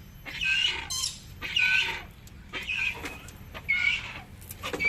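Yellow-crested cockatoo giving a series of about five short, harsh screeches, roughly one a second.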